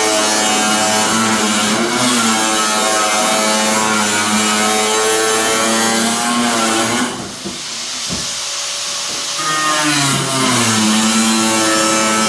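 Power tool's electric motor running hard, its pitch sagging under load about two seconds in; it drops off around seven seconds and winds back up to speed near ten seconds.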